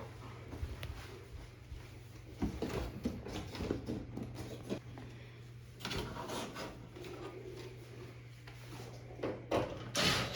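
Irregular clicks, knocks and rubbing from hands working on a front-loading washing machine's door seal and door surround during a gasket replacement, over a steady low hum.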